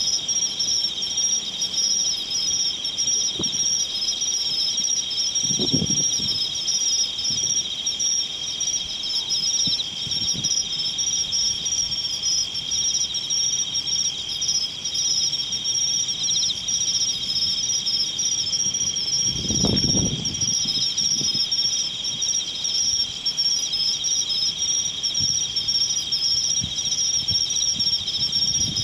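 Singing insects in a steady, unbroken chorus of fine high-pitched trilling in two pitch bands. Brief low rumbles come about six seconds in and again about twenty seconds in.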